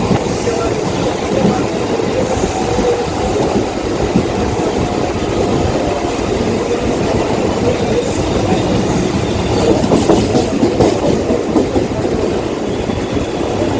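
Mumbai suburban electric local train running along the track: a steady, loud rumble with irregular knocks throughout.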